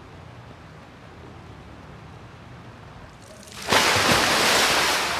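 Light, steady rain, then about three-quarters of the way through a sudden, much louder rush of rainwater pouring out of the open end of a white PVC drainpipe.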